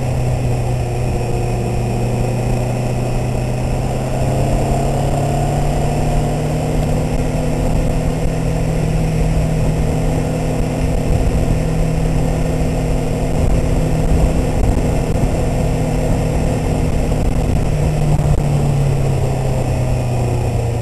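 Twin-cylinder engine of a 650R sport motorcycle running at a low, steady cruising speed, its pitch rising a little a few seconds in and dropping near the end with the throttle. There is a constant low wind rumble on the microphone.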